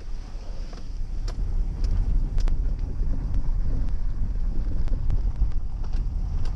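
Jeep driving slowly along a rough dirt woods road: a steady low rumble of engine and tyres, with scattered sharp clicks and rattles as it jolts over the ground.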